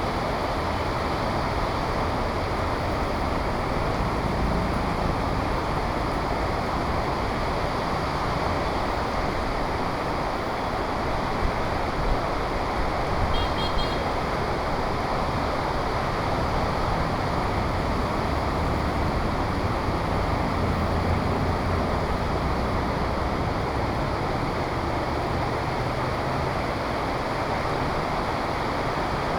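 Heavy rain falling steadily, with motor traffic passing through it as a low rumble that swells and fades.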